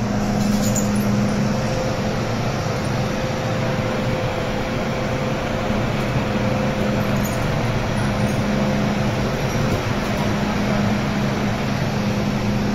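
Interior running noise of an MTR M-train underground: a steady rumble of wheels on rail and tunnel air, with a low hum that fades a couple of seconds in and returns near the end.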